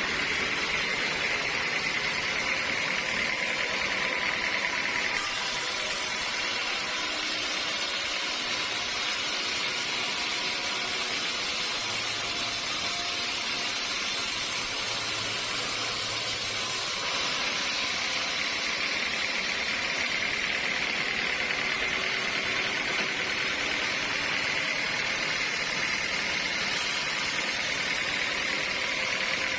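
Sawmill saw running steadily through a teak log, with the machine's motor under it and a continuous high whine that dips and recovers about two-thirds of the way through.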